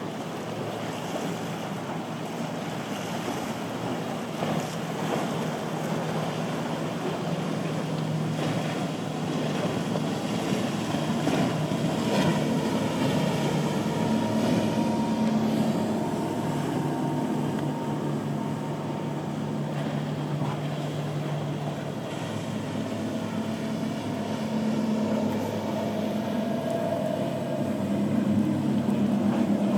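Motorboat engines droning as boats run through the inlet, over the wash of waves and wind on the microphone. The engine sound grows louder toward the end.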